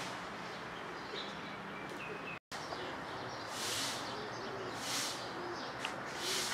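Small birds chirping a few times over steady outdoor background noise. The sound drops out for an instant; after that a soft swish repeats about every second and a half.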